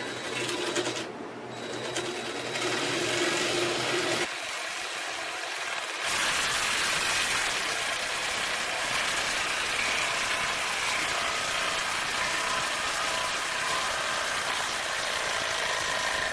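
Reciprocating saw running, its blade cutting lengthwise through 3/4-inch PVC pipe; a steady sawing noise that dips briefly about four seconds in and runs louder from about six seconds.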